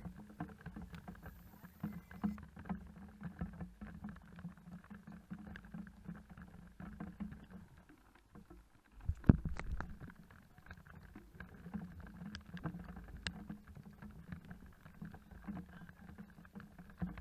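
Motorcycle riding, heard muffled: a steady low engine hum with scattered small taps, and one loud knock about nine seconds in.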